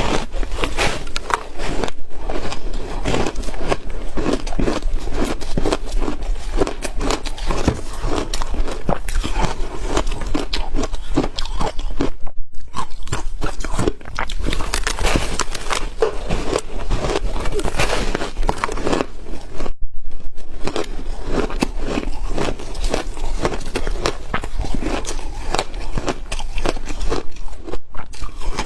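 Ice being bitten and chewed close to the microphone: dense, continuous crunching and crackling, broken by a few brief pauses.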